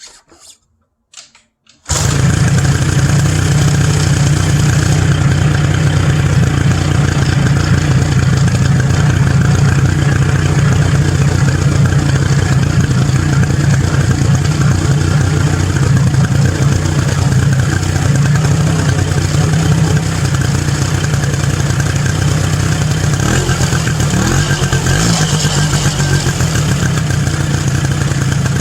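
Polaris ATV engine cold-starting: a few faint clicks, then the engine catches abruptly about two seconds in and runs steadily at idle.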